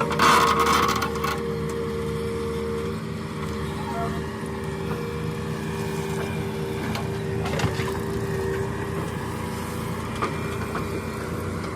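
Diesel engine of an earthmoving machine or tractor running steadily, with a brief louder burst of noise just after the start.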